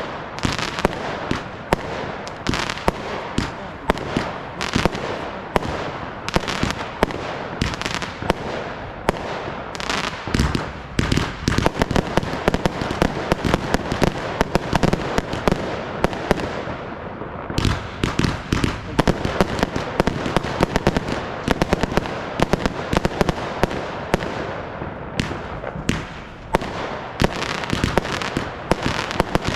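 Fireworks display: a rapid, continuous barrage of bangs and crackling bursts, thickest around the middle, with a brief easing just after halfway and again near the end.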